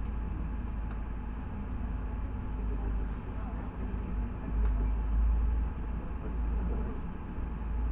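Cabin noise of a LiAZ 6213.65 articulated city bus under way: a steady low engine and road rumble that swells louder about halfway through.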